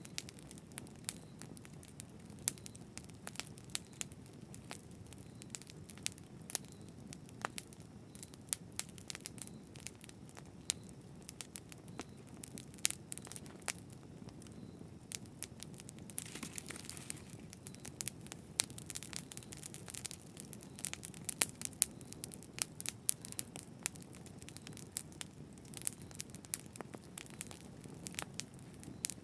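Campfire burning with a steady low rumble and many irregular sharp crackles and pops of burning wood, with a brief hiss about two-thirds of the way through.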